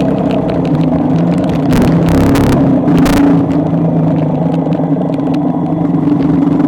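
Motor vehicle engine running steadily on the road, with two short whooshing surges of noise about two and three seconds in.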